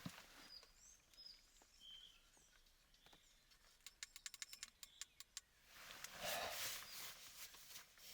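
Quiet forest ambience: a few faint bird chirps, then a quick run of about a dozen sharp clicks over a second and a half, then a breathy rush of noise lasting about two seconds.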